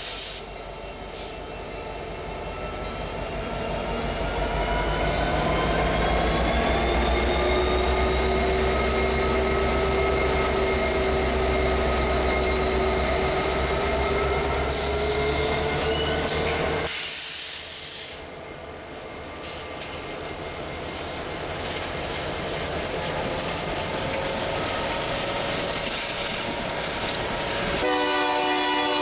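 BNSF diesel-electric freight locomotives passing at close range: a heavy engine rumble with a slowly rising whine. This is followed by freight cars rolling by on the rails. A train horn sounds near the end.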